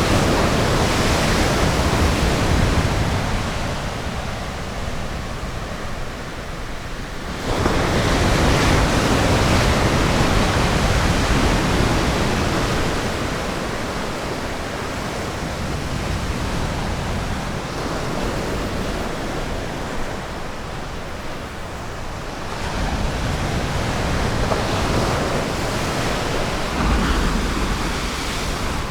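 Ocean waves breaking on a beach, a continuous wash of surf that swells and ebbs, with a wave breaking sharply about seven and a half seconds in; some wind on the microphone.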